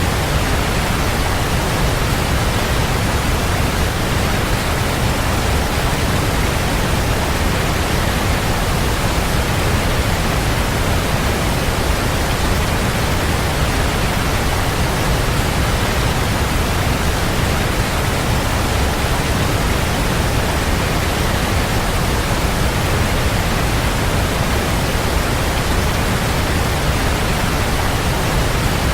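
Waterfall: a steady, unbroken rush of falling water with no distinct splashes or changes.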